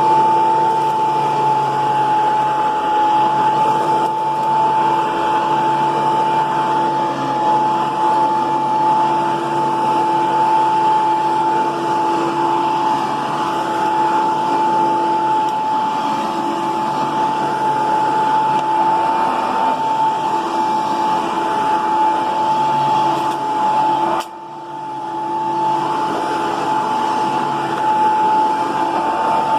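31-year-old Hoover Power Max II vacuum cleaner running steadily, its motor giving a high whine over the rush of air. About 24 seconds in, the sound drops suddenly and then builds back up over a couple of seconds.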